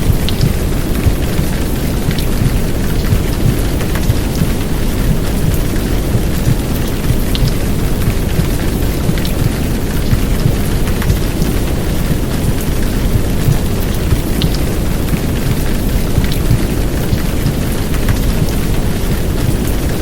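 Heavy downpour of rain, a steady dense hiss with faint scattered drop ticks, mixed with a deep, muffled womb-sound bed of white noise and heartbeat that keeps the low end rumbling evenly.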